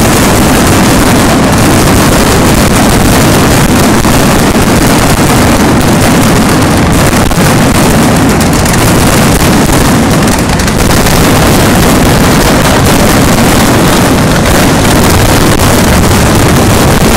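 Fireworks finale barrage: aerial shells bursting in rapid, continuous succession, so dense that the bursts run together into one loud, unbroken roar with no pauses.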